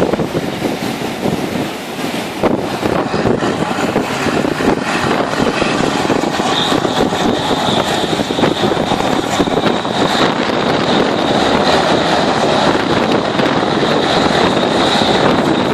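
Hovercraft engine and propeller fan running continuously, with a high steady whine coming in about six seconds in and the sound growing a little louder toward the end.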